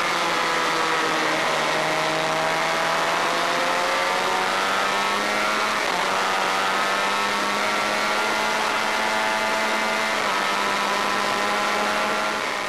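Honda VFR400 V4 engine running under way, heard onboard over a rush of wind. Its pitch drifts down, dips and climbs again about halfway through, then shifts once more near the end before the sound fades out.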